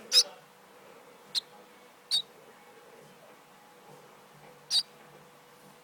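Baby bird chirping: four short, high peeps spread irregularly over a few seconds.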